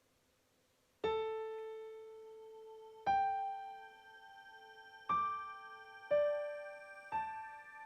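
Slow, sparse electric piano notes sounded one at a time. The first comes about a second in, then four more follow at one- to two-second gaps, each ringing and fading.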